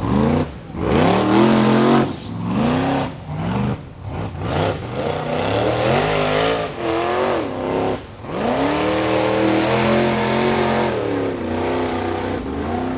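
Rock bouncer buggy's engine revving hard in repeated short bursts, the pitch jumping up and falling back each time, then held high in a longer pull from about eight seconds in.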